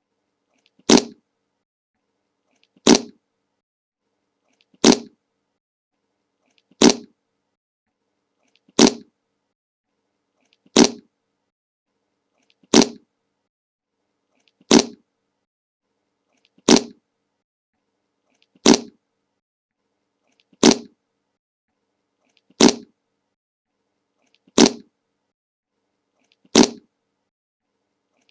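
A short fart sound effect repeated on a loop, one identical burst about every two seconds with silence between.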